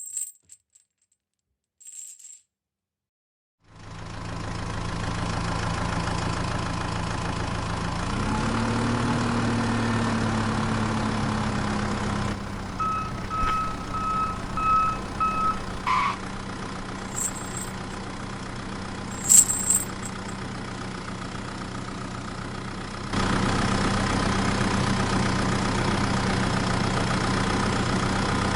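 Motor of a home-built mini tractor starting up about four seconds in and running steadily, its pitch rising briefly at about eight seconds. It runs quieter for a stretch, with a short series of even beeps and a few clicks, then runs loud and steady again for the last few seconds.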